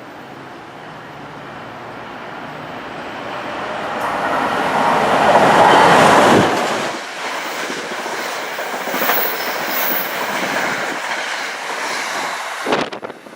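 Electric passenger train passing at speed: the rush grows to its loudest about six seconds in, then the cars run by with a steady clatter and a little wheel squeal, cutting off sharply near the end.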